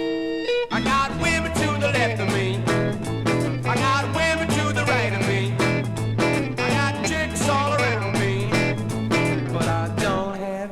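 Rhythm-and-blues rock band playing an instrumental passage with no vocals. A held chord rings at the start, then drums keep a steady beat under a repeating bass line and electric guitar. Another chord is held near the end.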